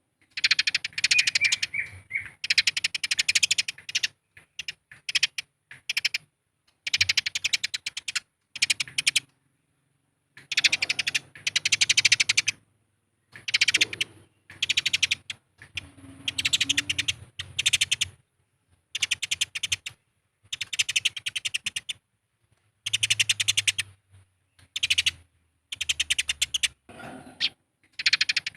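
Eurasian tree sparrows' fighting chatter: bursts of rapid, harsh chirping a second or two long, with short silent gaps between them.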